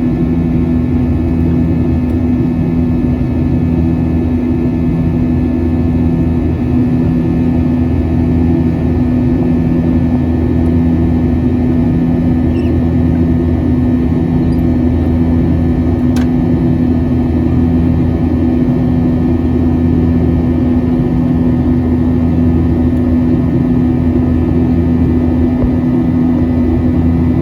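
Boeing 737-800 in flight: the steady drone of its CFM56-7B turbofans and the airflow heard inside the cabin, with a steady hum and a slow pulsing beat about once a second.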